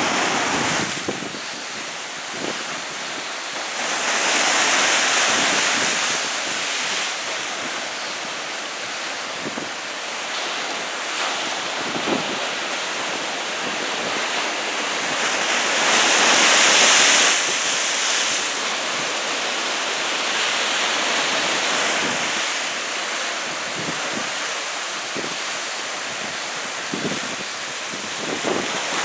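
Heavy surf from a typhoon swell breaking and washing on the shore, a continuous roar that swells loudest twice, about a quarter of the way in and again past the middle. Wind buffets the microphone throughout.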